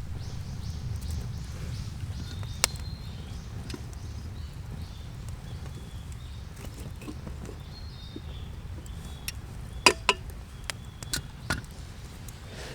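Outdoor forest ambience: a steady low rumble with faint, repeated short bird chirps, broken by a few sharp cracks, the loudest a quick pair about ten seconds in.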